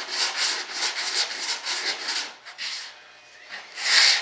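Coarse 80-grit sandpaper rubbed back and forth over hardened body filler in quick, even strokes, about four a second, cutting the filler down flat. The strokes stop for about a second past the middle and start again louder near the end.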